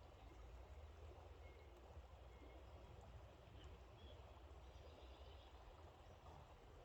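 Near silence: faint outdoor background with a steady low rumble and a few faint, short bird chirps.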